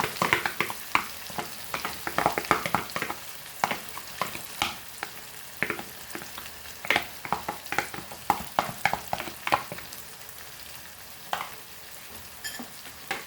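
Butter chicken base masala paste sizzling in hot oil in a pan, stirred with a utensil in quick scraping strokes against the pan. The stirring thins out after about ten seconds, leaving the steady sizzle.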